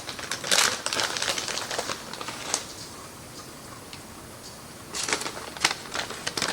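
Crinkling plastic bag of packaged shredded cheese and light clicks as cheese is shaken out and sprinkled, in two bursts with a quieter pause in the middle.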